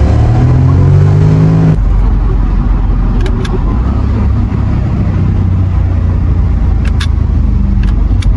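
2009 Porsche Panamera 4S's naturally aspirated V8 pulling hard, its pitch rising steadily. Less than two seconds in the sound cuts to a steady low engine and road drone with a few faint clicks.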